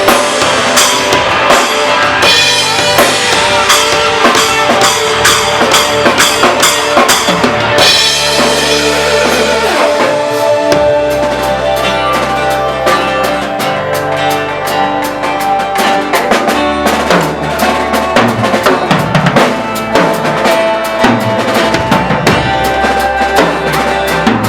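A live band playing through a sound check: a drum kit with kick, snare and cymbals keeps a steady beat over sustained bass notes that change every two seconds or so, with keys or guitar holding chords above. The drums are thinner for a few seconds near the middle, then come back in fully.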